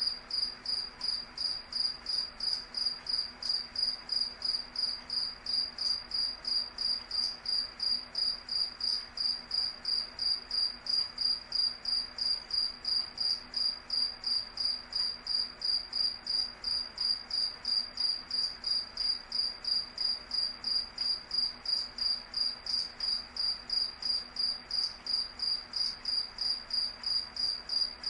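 A cricket chirping steadily: one high-pitched chirp repeated at an even pace of roughly two to three a second.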